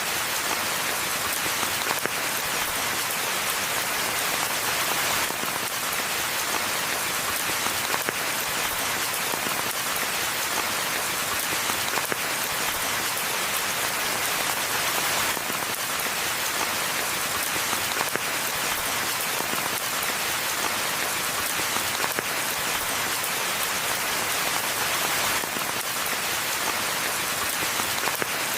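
Steady rain falling in a forest: an even, dense hiss of rainfall with faint individual drops ticking within it.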